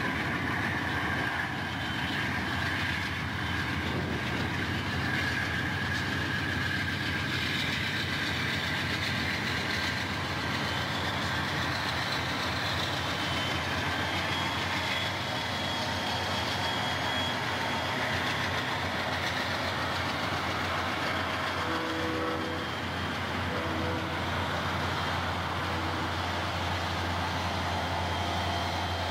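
Freight train passing at close range: several diesel locomotives coupled together running by, then double-stack container cars rolling past, a steady mix of engine noise and wheels on rail.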